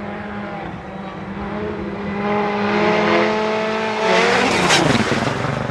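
Rally car approaching at speed, its engine note climbing and growing louder, then passing close with a rush of noise about four seconds in, the pitch falling as it goes away.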